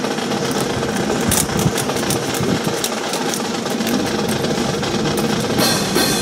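Rifle drill: sharp, irregular clacks of hands slapping rifles and rifle butts striking the ground, over a steady mechanical hum.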